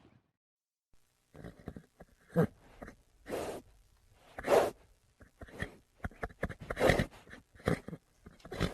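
Horse making a run of short, breathy, noisy sounds at an uneven pace, starting about a second and a half in after a brief silence.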